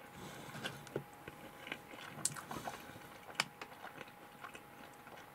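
Close-up chewing of a sliced-open Chicken McNugget with cheese sauce: quiet, irregular mouth clicks and smacks.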